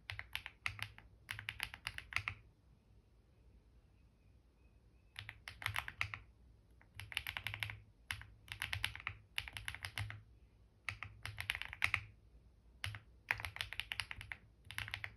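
Typing on a computer keyboard in quick bursts of key clicks, with a pause of about three seconds early on and short breaks between words.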